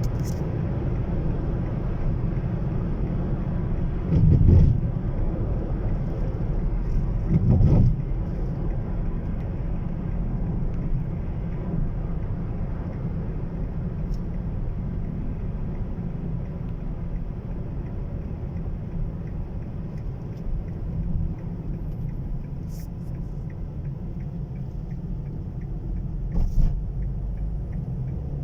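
Steady low rumble of a car on the move, with two louder swells about four and seven and a half seconds in.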